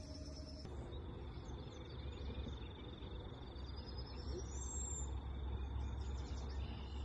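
Bird calls: a rising whistle in the middle and short high chirps, over a steady high-pitched whine and a low rumble.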